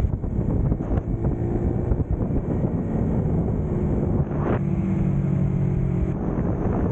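Motorcycle engine running while riding, under heavy wind buffeting on the microphone; a little past halfway a steady engine note stands out clearly for about a second and a half.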